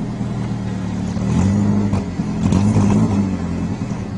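Car engine running under throttle, its pitch rising and falling and growing louder a couple of times, over steady road noise.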